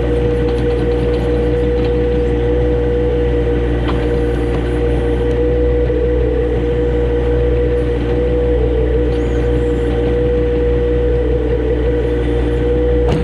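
John Deere compact tractor engine running steadily, with a constant whine over its low engine note.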